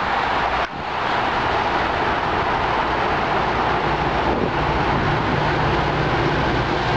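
A steady rushing noise, with the low drone of an approaching MBTA commuter rail train growing in from about halfway through.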